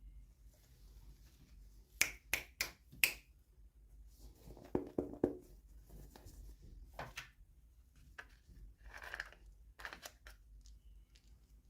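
Small plastic toy packaging being handled and opened: a quick series of four sharp clicks about two seconds in, then a soft crinkling rustle and scattered clicks and scrapes.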